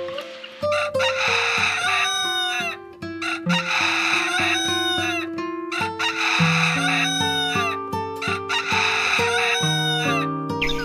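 Rooster crowing several times, long harsh calls that fall away at the end, over background music.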